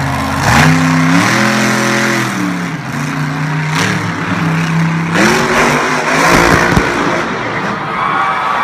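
Monster truck engine revving hard, its pitch climbing and dropping several times, with a few sharp bangs.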